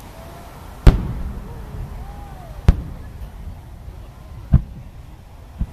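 Aerial fireworks going off: four sharp booms spaced one to two seconds apart, the first the loudest.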